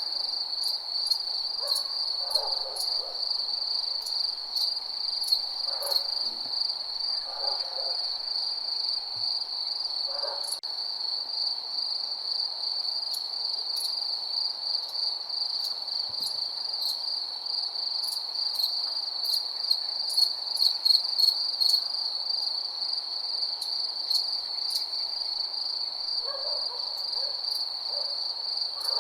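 Night insect chorus: crickets trilling in one steady, pulsing high tone, with quick higher insect ticks over it. An owl hoots low several times in the first ten seconds and again near the end.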